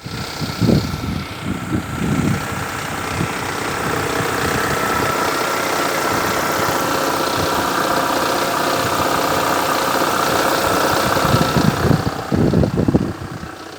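Lada Vesta idling with a rattling clatter from the gearbox, which the owner puts down to a faulty clutch disc rather than the gearbox input-shaft or release bearing. A steady high tone runs through it, with a few low thuds about a second in and again near the end.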